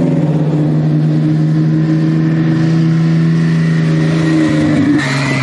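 A drag-race car's engine running loudly at a steady held speed, its note shifting near the end.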